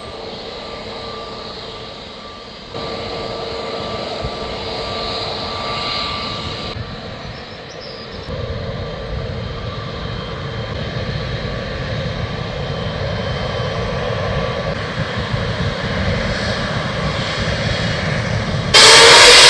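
Boeing 777-300ER's GE90 turbofan engines whining steadily at low thrust while taxiing, heard through several abrupt edits. Near the end the sound jumps suddenly to the far louder noise of the engines at full takeoff thrust.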